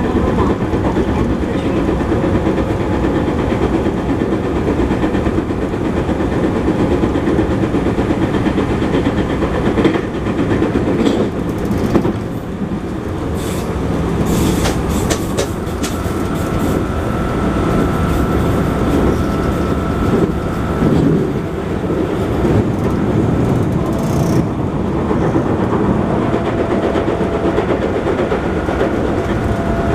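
JR West 221 series electric train heard from inside the car while running: a steady rumble of wheels on rail with rhythmic clacking. A wheel with a flat spot adds a repeated thump as it turns.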